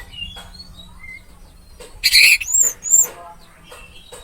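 Orange-headed thrush singing: short whistled notes and chirps, then a loud, rapid burst of high notes about two seconds in.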